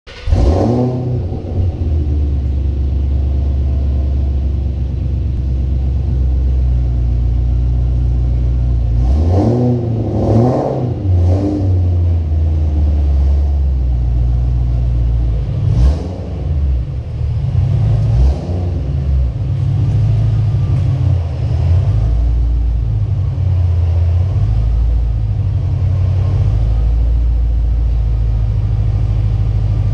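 Ford Mustang engine idling with a steady low rumble, revved briefly a few times around the middle.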